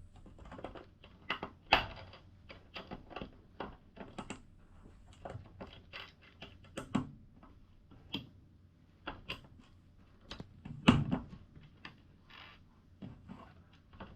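Small plastic LEGO pieces clicking and tapping as they are handled and pressed together: irregular light clicks, with a louder knock near the start and another about eleven seconds in.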